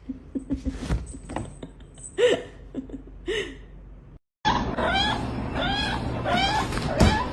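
Scattered knocks and clicks with two short rising-and-falling calls. After a sudden cut about four seconds in, a cat meows over and over in quick succession.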